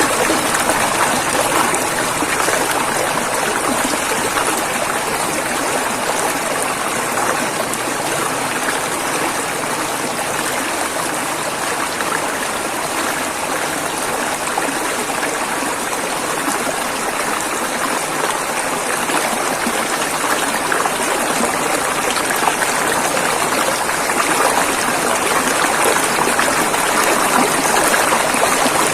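River water flowing over rocks, a steady rushing and babbling of running water.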